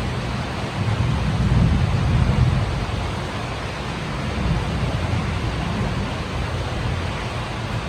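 Heavy rain falling steadily, a continuous hiss, with a low rumble that swells about a second in and eases off after about three seconds.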